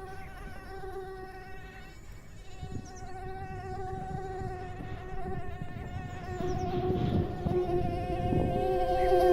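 A steady buzzing hum with a slightly wavering pitch, like a flying insect, growing louder toward the end.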